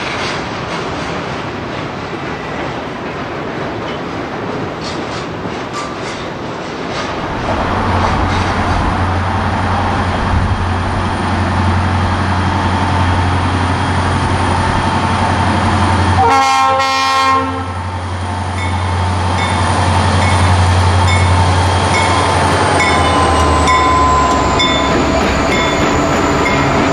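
A train running past on the rails. A deep steady rumble grows louder about seven seconds in, and the train horn sounds one short blast about sixteen seconds in.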